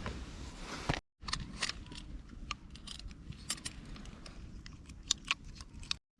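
A run of irregular sharp clicks and light metallic clinks, like small metal gear being handled, after a short rustle in the first second.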